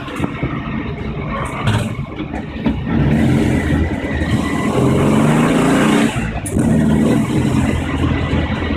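1973 Volkswagen Beetle's rear-mounted air-cooled flat-four engine pulling the car along, heard from inside the bare, stripped cabin. It gets louder about three seconds in, its note climbs a little, dips briefly about six seconds in, then picks up again.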